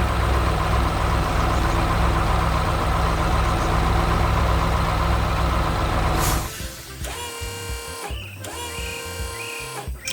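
Heavy truck engine sound effect running steadily, then cutting off about six seconds in, where light background music takes over.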